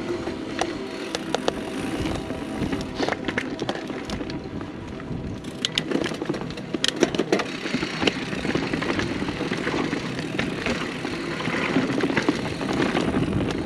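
Mountain bike rolling fast down dirt singletrack: tyre noise and wind, with sharp clicks and knocks from the bike rattling over rough ground, busiest about six to seven seconds in.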